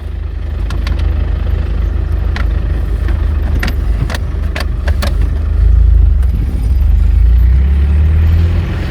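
Car engine and road rumble heard from inside the moving car's cabin, swelling louder about halfway through. A few short, sharp clicks or rattles come through in between.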